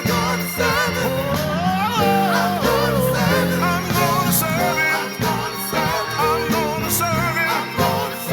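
Gospel worship music: a vocalist singing with heavy vibrato over a full band.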